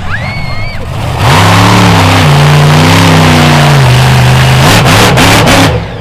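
Monster truck's supercharged V8 revving, then going to full throttle about a second in and running loud and steady. Near the end the throttle is blipped in quick bursts, with a brief dip just before the end.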